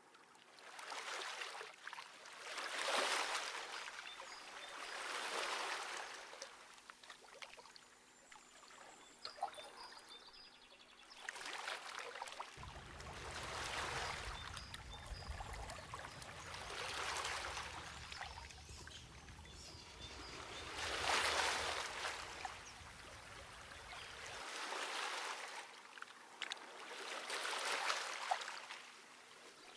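Water rushing and splashing in swells that rise and fade every few seconds.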